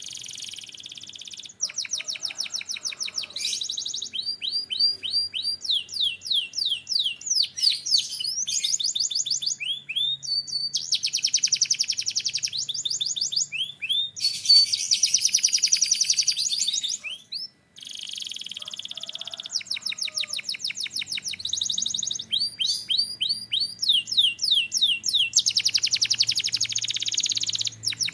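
Domestic canary singing a long, continuous song built of rapid runs of repeated notes: quick series of falling whistles and fast trills, each held for a second or two before switching to the next phrase, with a brief break a little past halfway.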